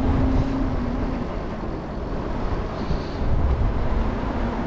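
Wind rushing over an action camera's microphone while riding a Super73 electric bike, with a steady low hum that drops out about a second in and comes back near the end.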